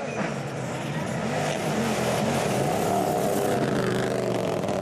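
WRC rally car engine running at high revs, its pitch holding fairly level with small dips and a quick drop just after the start.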